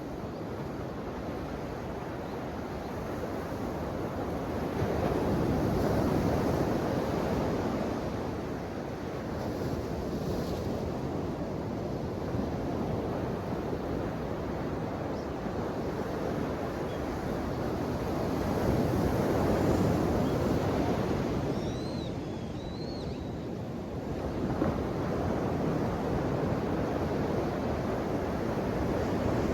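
Ocean waves washing on the shore, a steady rush of surf that swells louder twice, a few seconds in and again about two-thirds through.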